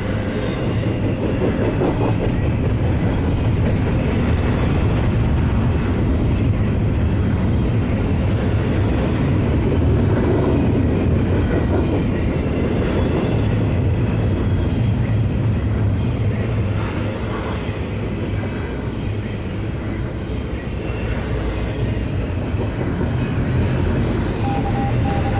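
Norfolk Southern intermodal stack train rolling past: a steady, loud rumble and clatter of freight-car wheels on the rails. A thin steady tone comes in near the end.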